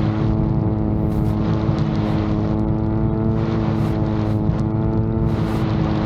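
VTOL drone's propellers running at a steady pitch, a constant multi-toned hum, with a low wind rumble on the microphone.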